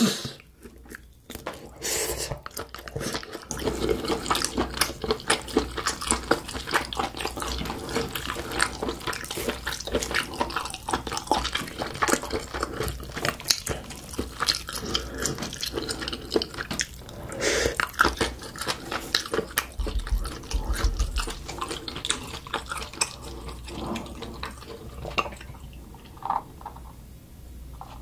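Close-miked chewing of sauced grilled octopus: a dense run of wet smacks, squelches and mouth clicks in quick succession.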